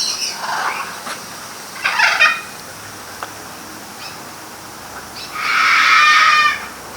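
Parrot squawks: a short harsh call about two seconds in, then a louder, longer squawk lasting over a second near the end.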